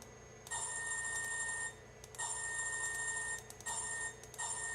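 Bell sound effect from an HO scale caboose's DCC sound decoder, played through its small onboard speaker: an electric-sounding ringing in four bursts of about a second each, with short gaps between.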